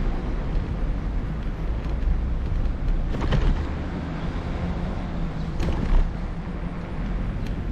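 Wind buffeting the camera microphone while cycling, a steady low rumble, with a few short knocks and rattles about three, six and seven and a half seconds in.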